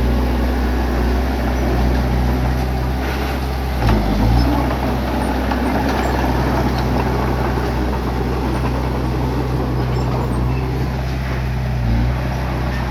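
Bulldozer's diesel engine running steadily under load, its low drone briefly dipping and shifting pitch about four seconds in and again near the end.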